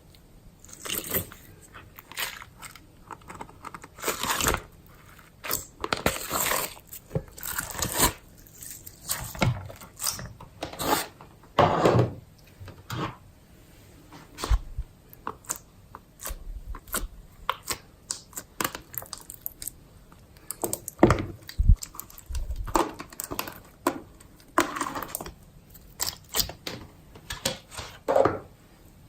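Hands squishing and stretching slime as several old slimes are mixed together, making irregular sticky crackles and squelches with short pauses between them.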